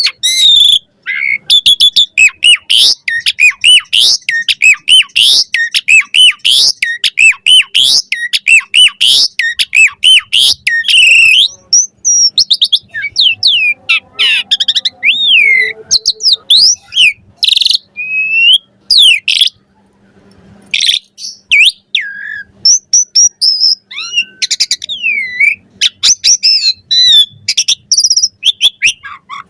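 Asian pied starling singing a fast, varied song of gliding whistles and chattering notes, with a couple of short pauses along the way.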